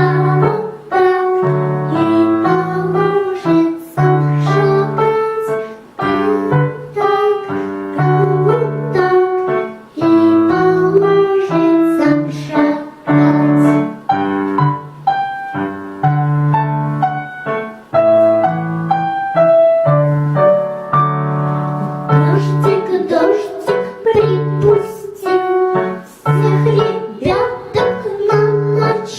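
A child singing a children's song over a piano backing track.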